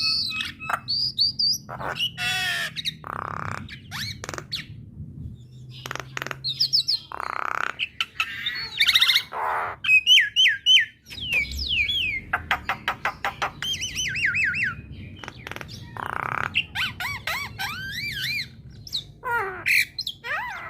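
Female Javan myna (jalak kebo) singing a varied, continuous run of quick sliding whistles, clicks and a few harsh squawks.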